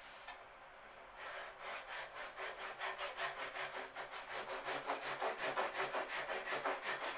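Hand saw cutting into wood in quick, even back-and-forth strokes, starting just over a second in and growing louder as the cut gets established, the saw blade held against a magnetic dovetail guide.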